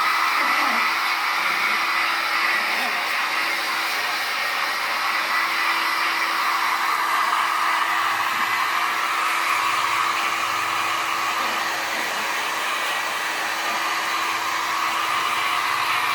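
Steady whir of a small electric blower motor with a constant low hum, holding at an even level throughout.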